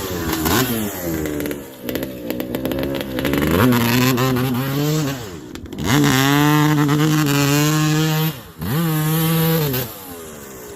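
2002 Suzuki RM250's single-cylinder two-stroke engine being revved: the revs climb, hold high for a couple of seconds, drop sharply and climb again several times, then fall back near the end.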